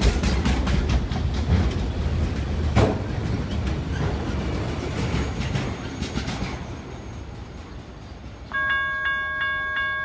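Freight train of autorack cars passing close by, with wheels clicking rapidly over the rail joints over a heavy rumble, fading as the end of the train moves away. Near the end a chord of several steady tones sounds loudly for about a second and a half, then cuts off.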